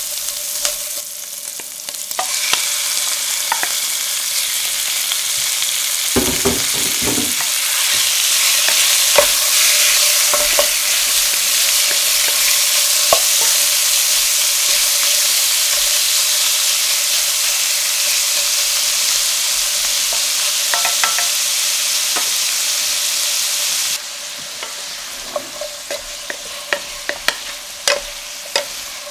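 Diced chorizo and raw chicken sizzling in hot oil in a stainless steel sauté pan, stirred with a wooden spatula. The sizzle swells after a few soft thuds about six seconds in, as the chicken goes in. Near the end it is quieter, and the spatula clicks and scrapes against the pan.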